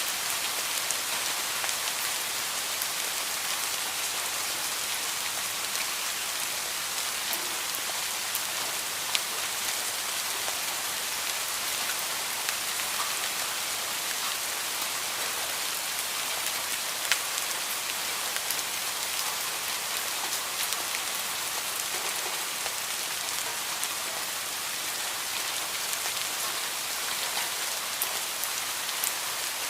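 Heavy rain falling steadily: an even hiss of rain with scattered sharper drop ticks.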